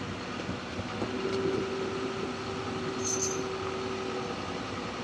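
Forestry log forwarder's diesel engine running as the tracked machine is moved slowly, with a steady whine that comes in about a second in and fades out after about four seconds.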